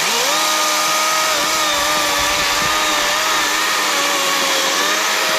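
Kobalt 24V brushless cordless chainsaw running at full speed, its 12-inch bar and chain cutting through a piece of wood. The motor's steady whine sags slightly in pitch as the chain bites.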